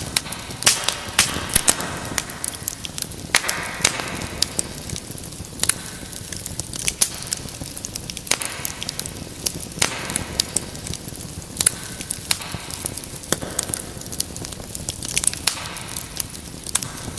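Fireplace fire crackling, with frequent sharp, irregular pops over a soft steady hiss.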